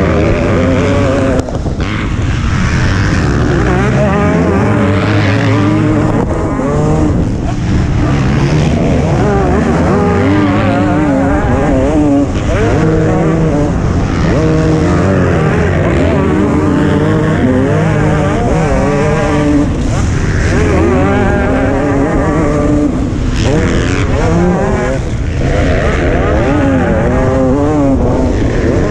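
Motocross bike engine running hard at race pace, its revs rising and falling again and again.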